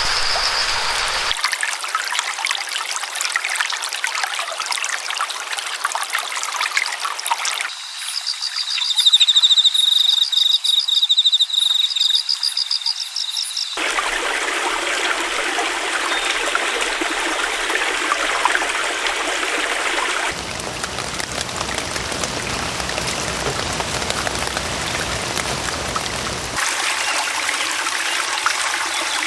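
Running water from a stream, trickling and splashing, in a series of short clips that change abruptly every few seconds. From about 8 to 14 seconds in, a loud, high, pulsing call from an animal, a bird or insect, sounds over the water.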